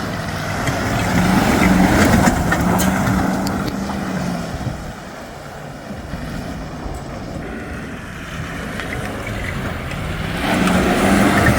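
GMC 2500 pickup's engine revving as the truck drives through mud, with the rush and spatter of mud and water thrown up by the tyres. It is loudest in two surges, one about one to four seconds in and another near the end, with a lull between.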